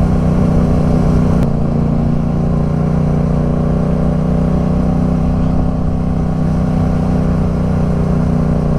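Yamaha MT-07's parallel-twin engine running at a steady speed while riding, with a brief change in the note and a faint click about a second and a half in.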